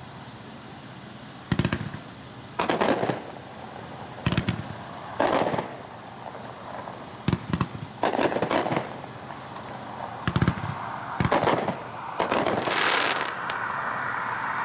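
A 20-shot, 350-gram consumer aerial cake (The Next Big Thing) firing, heard from a distance. It gives an irregular string of about a dozen launch thumps and bursting reports, roughly one a second, with some shots close together.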